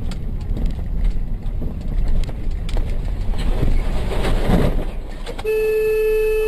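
Low rumble of a vehicle's engine and road noise with scattered knocks, then a steady, single-pitched vehicle horn blast begins about five seconds in and holds.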